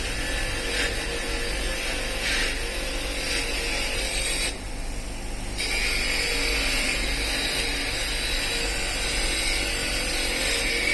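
A power tool running steadily. It stops for about a second roughly halfway through, then runs again.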